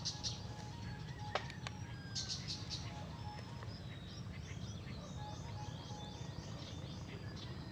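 Small birds chirping, with a run of quick falling notes repeated about eight times from about four seconds in. A single sharp click comes about a second and a half in. A steady low rumble runs underneath.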